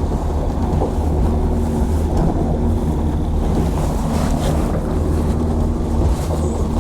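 Small fishing boat's engine running steadily, with wind on the microphone.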